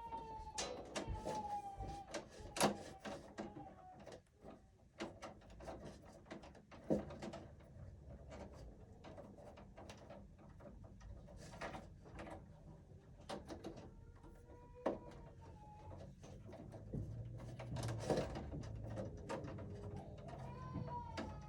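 Scattered light clicks and taps of hands and tools working wires in a breaker panel. A few short squeaky calls that fall in pitch come at the start, about two-thirds through, and near the end.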